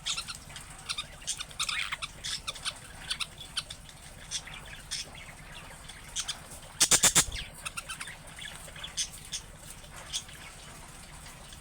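Budgerigars chirping and chattering in many short, quick calls, with a brief loud flurry of about five rapid beats about seven seconds in.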